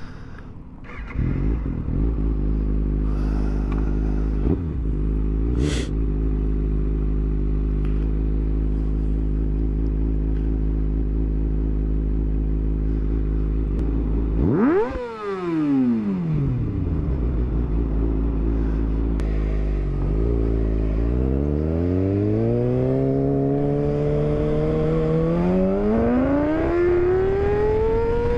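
Motorcycle engine idling steadily. About halfway through it gives one sharp rev that climbs and falls back within a second or two. Over the last several seconds the revs climb smoothly and steadily as it pulls away under throttle.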